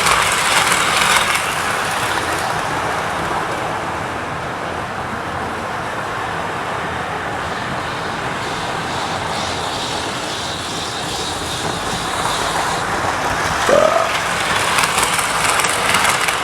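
Model trains running round the layout: a steady rumble from the motors and wheels on the track, with some clicks. A short rising squeak comes about fourteen seconds in.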